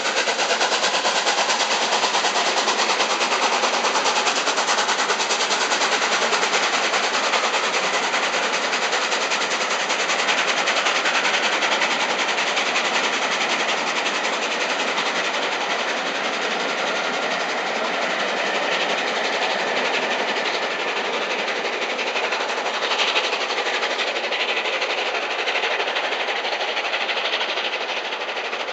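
Coaches of a steam-hauled express train rolling past: a steady rumble of wheels on rail with a dense, fast clatter, easing slightly toward the end.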